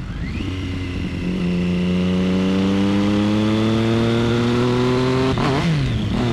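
Motorcycle engine sound-effect recording of a ride: the engine note climbs slowly and steadily in pitch as the bike speeds up, with a brief dip in pitch about five and a half seconds in. It starts and stops abruptly, as a clip played back.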